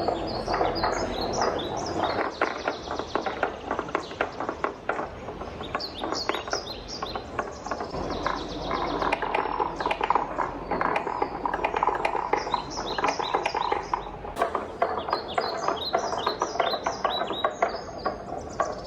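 Wooden balls rolling and clattering down a wooden marble run: a continuous rolling rumble with rapid, irregular clacks and knocks as the balls hit and drop along the track, the rolling growing stronger in the middle.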